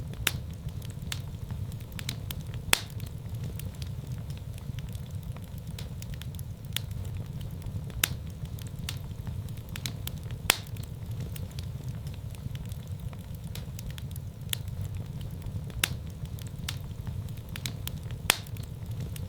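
Wood fire in a fireplace crackling: sharp pops and snaps at irregular intervals over a steady low rumble of the flames.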